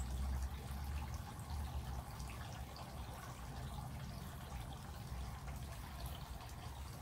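Rain falling steadily, with scattered drips and trickling water. A low rumble fades out about a second in.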